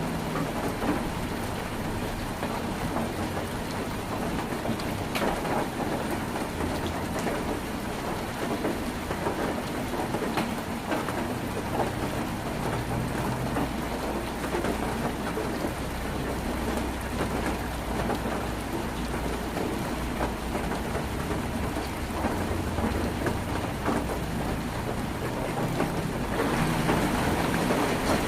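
Heavy rain falling on a tin roof, a dense steady patter of drops, with a low rumble in the middle. The rain grows louder near the end.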